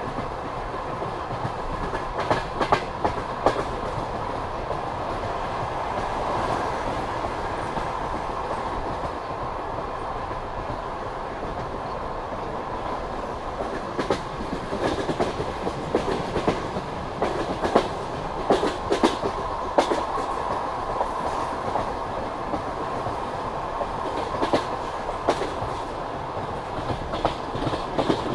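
Passenger train coach wheels running along the rails at speed: a steady rumble with the clickety-clack of wheels over rail joints, the clicks coming in irregular clusters that grow thicker in the second half.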